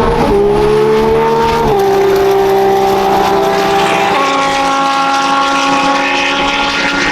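Race car engine running on the circuit and changing gear: its pitch drops sharply twice in the first two seconds, then steps up about four seconds in and holds steady.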